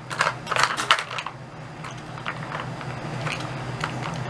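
Hard plastic pieces of a Dog Brick treat puzzle clicking and clattering as a dog works at it: a quick run of clicks in the first second or so, then a few scattered clicks. A steady low hum runs underneath.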